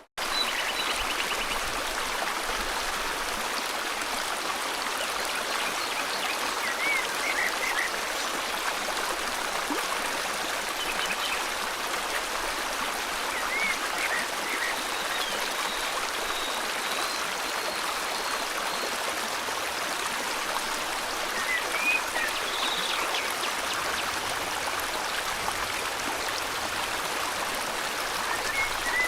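River water flowing steadily, with scattered short bird chirps and whistles over it.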